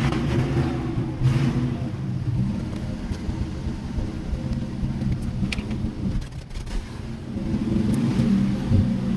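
Old pickup truck's engine running steadily while driving, heard from inside the cab, building up louder near the end.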